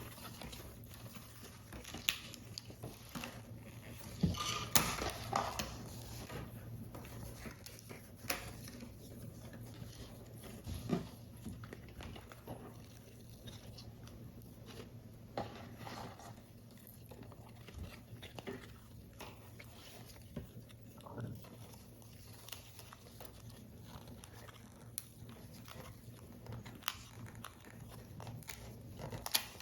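Close-up handling of card paper while assembling a paper model: scattered light taps, clicks and soft rustles, busiest about four to six seconds in, over a low steady hum.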